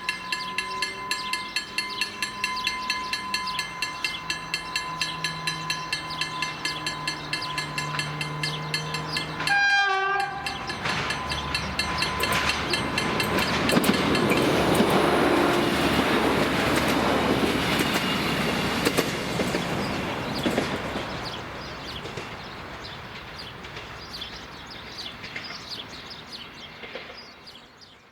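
The level crossing's electronic warning signal rings rapidly over the rising sound of an approaching diesel multiple unit's engine. The train gives one short horn blast about ten seconds in. The railcar then passes over the crossing with a loud rumble and clickety-clack of wheels over the rail joints, which fades away.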